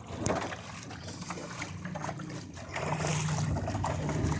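Water lapping and trickling against the hull of a small sailboat under way, with light knocks. About three seconds in, a low steady hum joins it.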